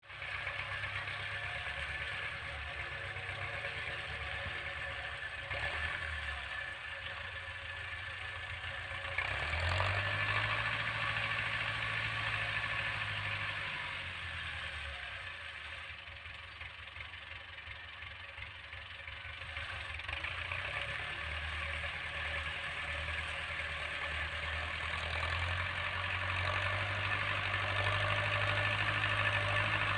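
Tractor engine running steadily while pulling a plough through a field. It grows louder about a third of the way in, falls away in the middle, then builds again toward the end.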